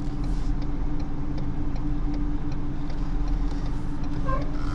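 Diesel truck engine running at low speed, a steady drone with faint regular ticking over it.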